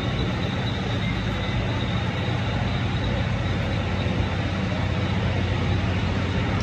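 Steady low droning hum of an ED75-hauled 12-series passenger train, with an even rushing noise over it that holds unchanged throughout.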